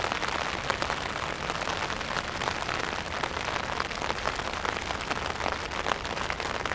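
Steady patter of rain with many small ticks close to the microphone.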